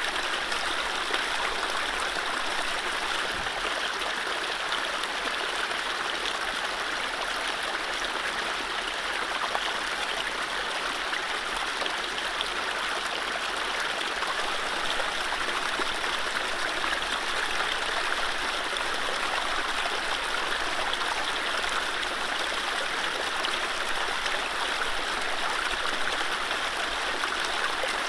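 Mountain stream running over low rapids: a steady, even rush and babble of water, with no birdsong.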